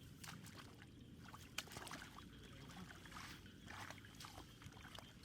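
Faint splashing and trickling of shallow water, with many small scattered splashes as hands work through the water.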